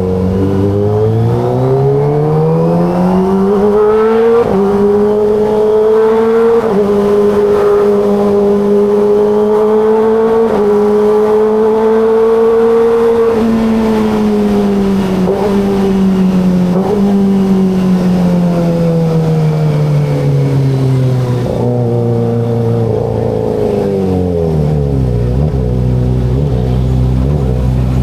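Kawasaki ZX-25RR's 249 cc inline-four engine on the move, unfiltered exhaust note. It climbs through the gears over the first few seconds, holds a steady cruising note, then winds down over several downshifts to a low idle near the end.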